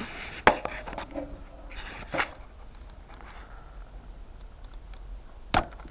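Hand-tool work on a motorbike carburettor: a sharp metallic click about half a second in, a short scrape ending in a click around two seconds in, and another sharp click near the end.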